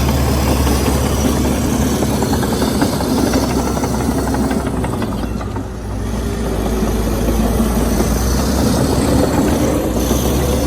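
Komatsu D61EX bulldozer's diesel engine running steadily with a rattling clatter over it. The sound dips briefly about halfway through before picking up again.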